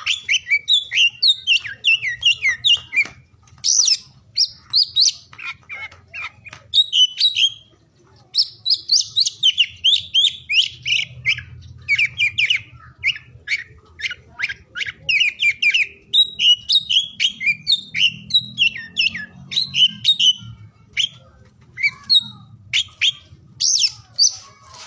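Oriental magpie-robin (kacer) singing: quick, varied runs of high whistled and chattering notes in phrases broken by short pauses, over a faint low hum.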